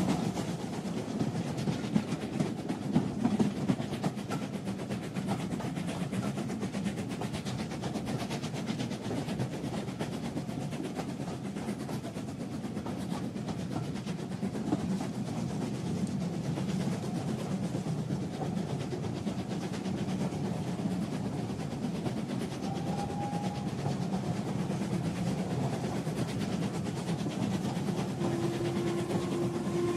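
A train running along the rails: a steady rumble with rapid clatter. A whistle starts to sound near the end.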